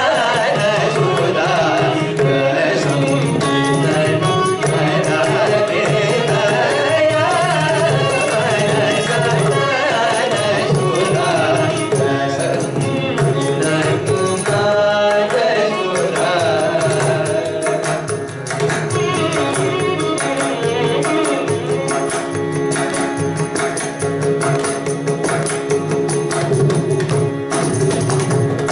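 Carnatic music: vocals with violin accompaniment over dense, fast mridangam strokes.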